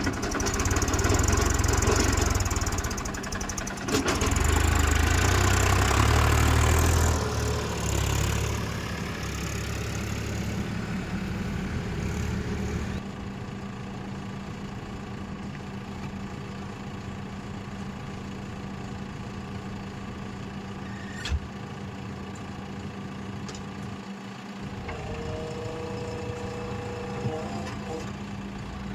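Diesel engine working hard under load for the first several seconds, then easing down to a steady, quieter running hum. A sharp knock comes about four seconds in, and another partway through.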